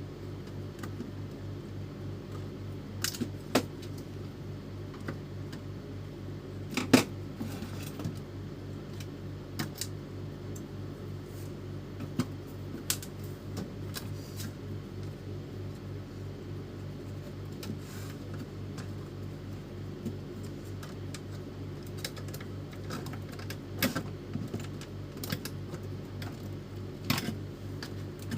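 Irregular sharp clicks and knocks of hard plastic and metal printer parts being handled, the loudest about 7 seconds in, over a steady low hum.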